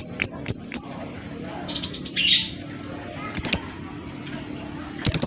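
Lovebird calling: a run of sharp, high chirps, a short rattling trill about two seconds in, then more chirps in quick pairs.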